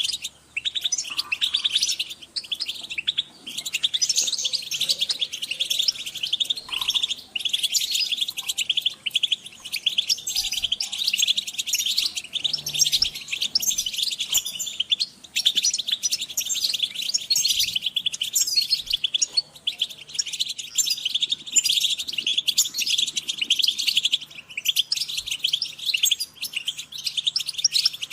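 A group of European goldfinches calling and twittering together: rapid high chirps that run on without a break.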